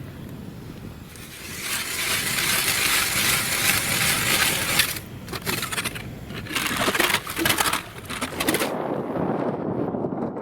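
Ice and snow being scraped and crunched in a long run of harsh grating, broken by two short pauses, then turning duller and lower near the end.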